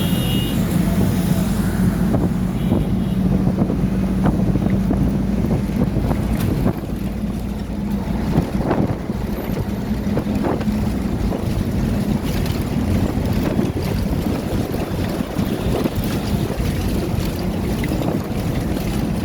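Construction site noise: a machine engine runs with a steady low drone that fades out about halfway through, under a rumble of wind on the microphone, with a few knocks in the middle.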